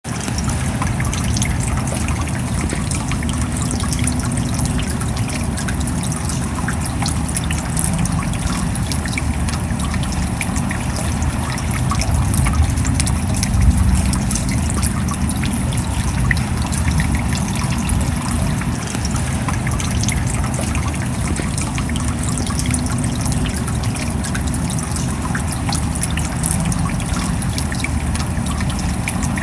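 Steady rain: an even rush of water noise dotted with countless small drop impacts, over a strong low rumble.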